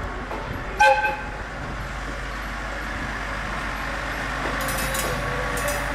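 Diesel railcar giving a short horn toot about a second in, then its engine running with a steady rumble that slowly grows louder as it moves. A few brief high rattles come near the end.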